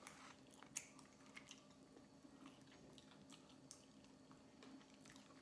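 Faint chewing with soft, scattered mouth clicks and smacks, over a faint steady hum.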